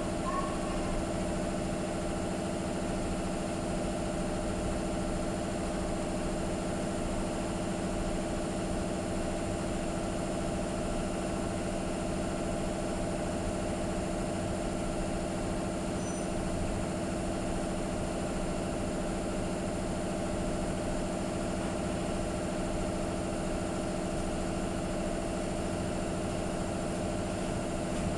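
A steady machine hum with an even, unchanging pitch, of the kind an idling engine or a running motor makes.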